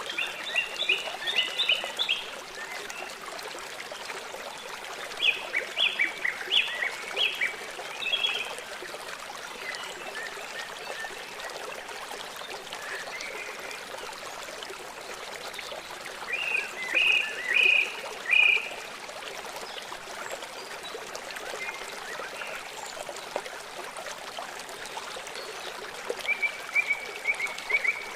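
Small songbirds chirping in four short bouts of quick, high notes, over the steady rush of running water, like a stream.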